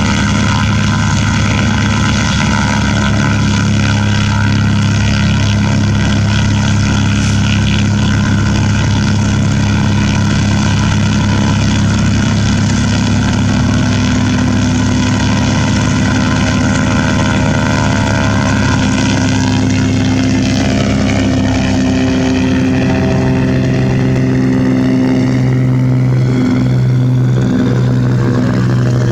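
Propeller aircraft engine running steadily, a loud droning hum; its pitch bends briefly about two-thirds of the way through.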